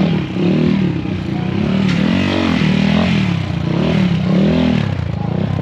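Off-road motorcycle engine revved up and down in short throttle blips, about once a second, as the bike creeps through a tight course at walking pace.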